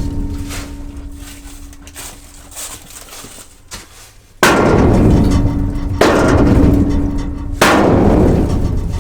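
Heavy hammer blows on steel, three strikes about a second and a half apart, each ringing on with a metallic tone. Before them, an earlier blow fades out.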